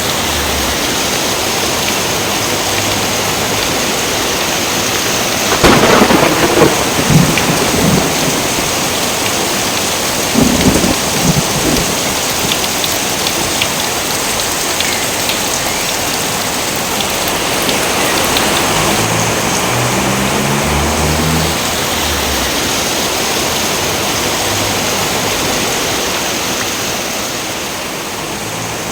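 Steady heavy rain pouring, with a crackling thunderclap about six seconds in and a second, shorter rumble of thunder about ten seconds in.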